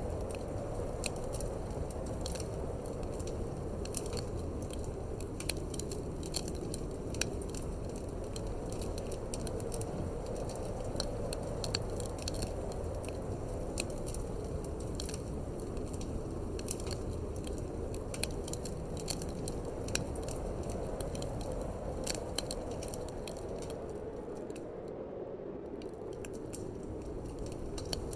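Wood fire crackling in a fireplace, with frequent irregular sharp pops and snaps over a steady low rushing of wind.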